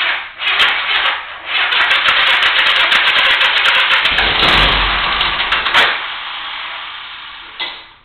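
1975 Honda GL1000 Gold Wing's flat-four engine starting for the first time after sitting non-running and having new timing belts fitted. It starts suddenly, stumbles twice in the first second and a half, runs loudly for several seconds, then fades and cuts out near the end.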